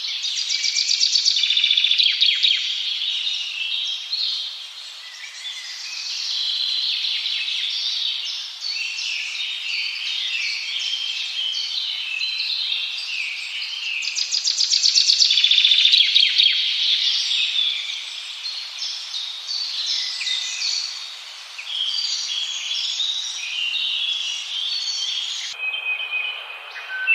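A dense chorus of many small birds chirping and trilling at once, with overlapping calls and a few rapid trills standing out. The chorus changes abruptly near the end to a thinner set of calls.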